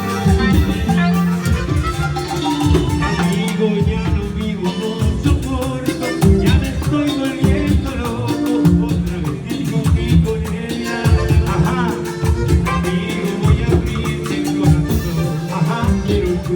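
A band playing Latin dance music, salsa-like, with a strong, steadily pulsing bass line.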